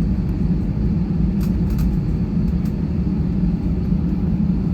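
Steady low rumble of a jet airliner's engines and airframe, heard from inside the passenger cabin on the ground just after landing. A few faint clicks sound about a second and a half in.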